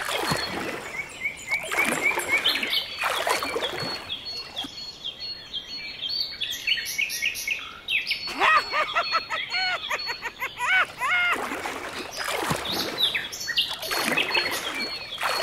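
Birds chirping and calling in quick, repeated pitched notes, busiest a little past the middle.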